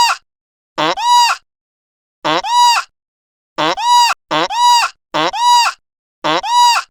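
An animal calling over and over: six short calls of about half a second each, each rising to a held high pitch and then dropping, with silence between.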